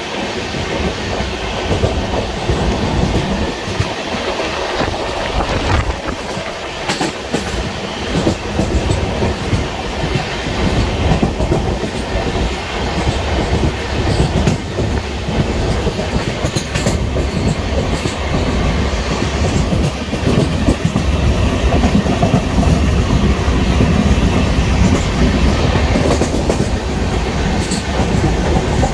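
Passenger express train running at speed, its wheels clattering over the rail joints in a steady rumble with scattered sharp clicks.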